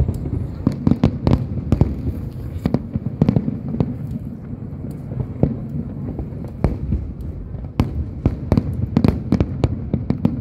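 Aerial fireworks display going off: many sharp bangs and crackles in quick succession, several a second at times, over a continuous low rumble of bursts.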